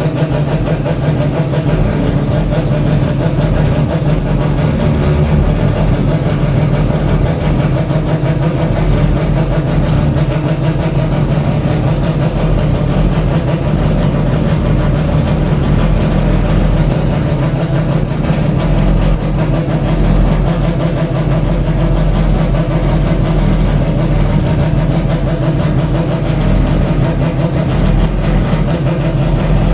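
Mazda 787B's four-rotor R26B rotary racing engine idling, loud and steady.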